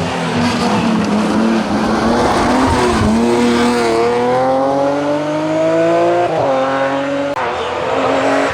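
BMW M3 E36 rally car's straight-six engine under hard acceleration. Its pitch dips a little before three seconds in, climbs steadily for about three seconds, then drops twice in quick succession near the end as it shifts up.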